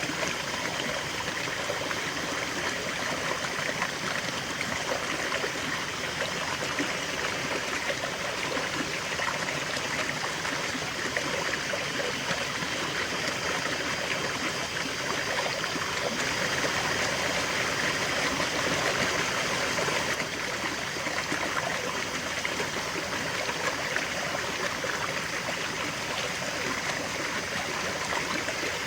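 River water flowing steadily over stones, a continuous rushing and burbling with a slight swell about two-thirds of the way through.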